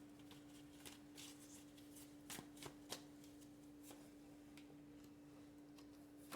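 Tarot cards being handled: scattered light clicks and flicks of card stock, clustered in the first half, over a faint steady low hum.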